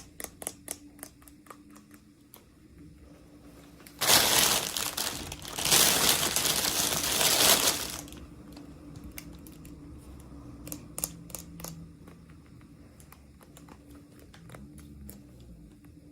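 Packaging crinkling as it is handled and opened, loudest in a stretch of about four seconds starting about four seconds in, with small clicks and taps before and after.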